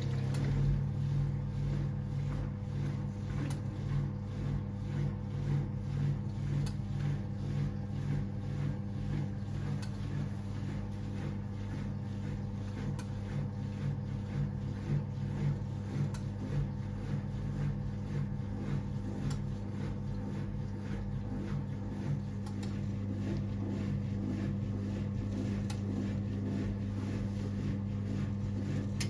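1978 Siemens WA4600 washing machine running mid-programme: a steady motor hum with a pulsing rise and fall about once a second that evens out toward the end.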